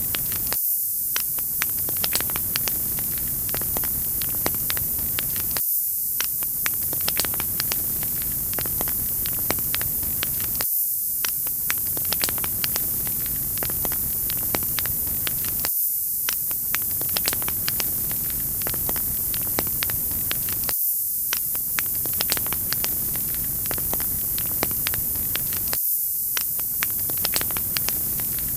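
Wood fire crackling, with many small sharp pops over a steady hiss. The same few seconds of crackling repeat about every five seconds.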